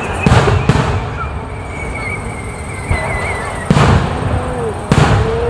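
Fireworks shells bursting: four loud bangs, two close together within the first second and two more near the end, each followed by a short rumbling tail. A thin, wavering whistle runs through the first half.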